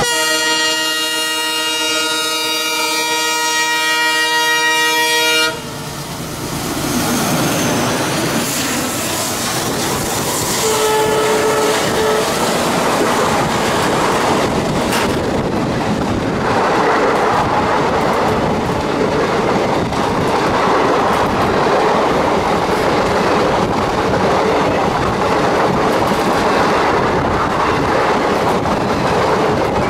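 Indian Railways WDM-3D diesel locomotive sounding its horn in one long chord of about five and a half seconds that cuts off suddenly, with a brief second horn note about eleven seconds in. Then the locomotive and its passenger coaches roll past slowly with a steady rumble of wheels on the track.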